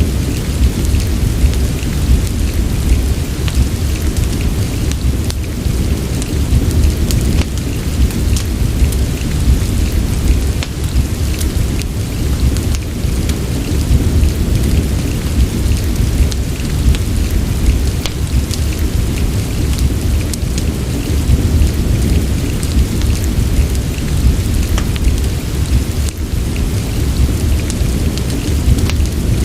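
Steady rain mixed with a fireplace: an even rain hiss over a deep, constant low rumble, with many small sharp ticks of crackling fire scattered through it.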